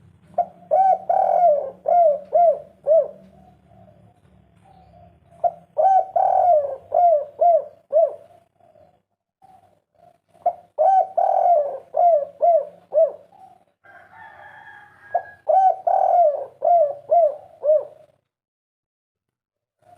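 Spotted dove (tekukur) cooing: four phrases, each a quick run of about five or six coo notes, with pauses of a second or two between them. This is the 'kuk 3' coo type that keepers prize.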